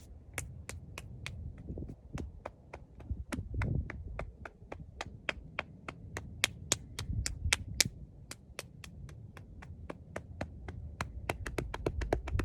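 Hand tapping rhythmically on the body, patting down the arms in qigong self-massage, at an even pace of about three to four taps a second.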